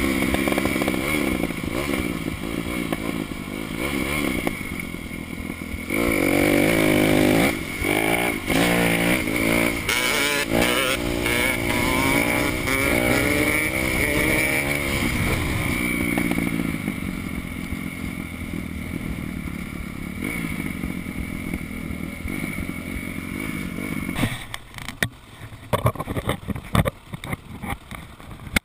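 Four-stroke single-cylinder dirt bike engine running and revving up and down as it is ridden. Near the end the engine sound falls away, leaving scattered knocks and clatter.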